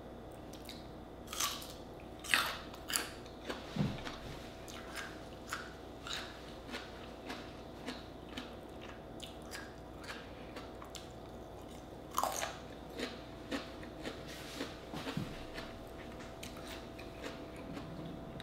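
Close-up crunching and chewing of a slice of raw radish: a run of short, crisp crunches, loudest in the first few seconds and again about twelve seconds in, with softer chews between.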